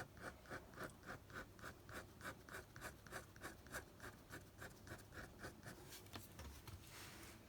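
Ink pen scratching faintly on paper in quick short strokes, about four a second, as small lines are drawn. The strokes stop about six seconds in.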